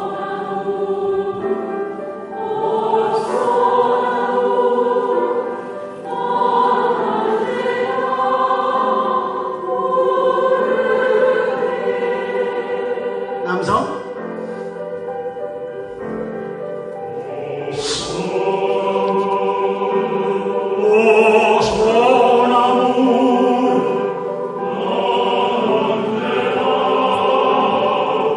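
A choir singing a song in harmony, in held chords that shift every few seconds.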